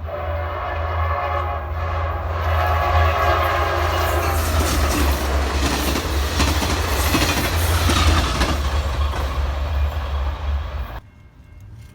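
A train's horn sounding with several steady tones, fading out about four seconds in, as the train passes close with the loud clatter of wheels and cars and a heavy low rumble. The sound cuts off abruptly near the end.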